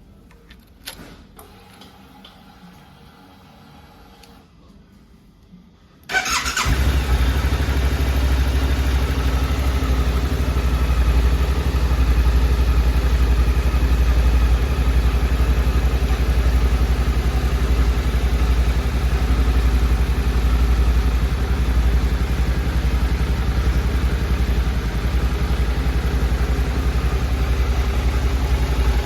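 A few faint clicks, then about six seconds in the 2024 Suzuki V-Strom 800's 776 cc parallel-twin engine is started on the electric starter, catches at once and settles into a steady idle.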